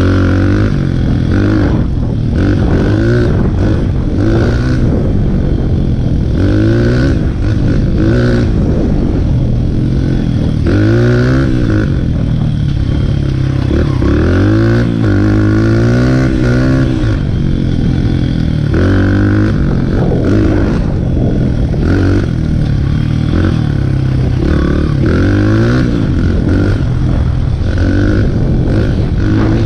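Dirt bike engine being ridden hard, revving up and easing off over and over, its pitch rising and falling every second or two.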